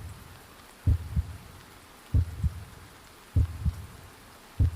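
Slow heartbeat sound effect: paired low thumps, lub-dub, about once every one and a quarter seconds, four beats in all.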